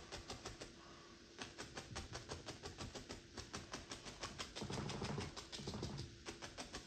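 Brush strokes on a canvas during oil painting, a fast, even rhythm of about five light strokes a second.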